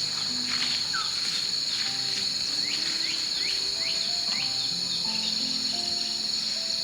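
Steady high-pitched drone of insects, with a series of short falling chirps about halfway through and soft background music of slow, held low notes.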